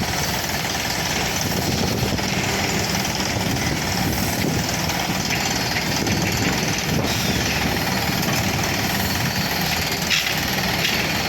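Epiroc D35 surface rock drilling rig working, with the Atlas Copco XAV 216 diesel air compressor running; a loud, steady machine din with no pauses.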